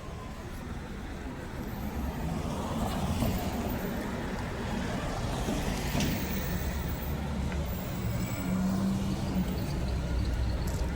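A motor vehicle running, heard as a steady low rumble that grows louder about two seconds in.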